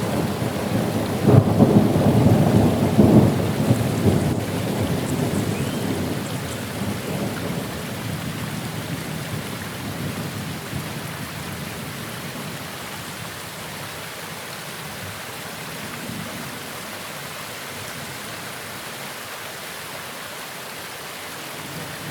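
Rain falling steadily during a thunderstorm, with a peal of thunder rumbling in about a second in and dying away over several seconds. The whole sound then grows gradually quieter and settles into a softer rain.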